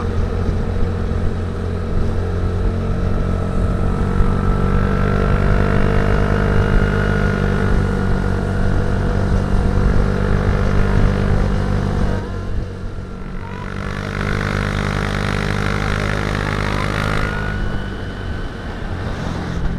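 Motorcycle engine running steadily while riding, easing off briefly about twelve seconds in and again near the end.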